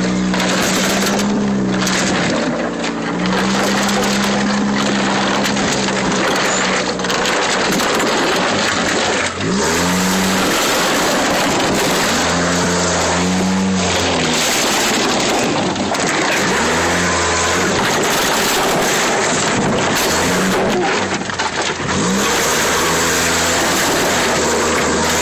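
Car engine running loud and rough, revving up and down several times as it labours along a woodland trail, with its exhaust knocked down onto the ground. A constant dense scraping and rattling noise from brush and branches against the body sits under it throughout.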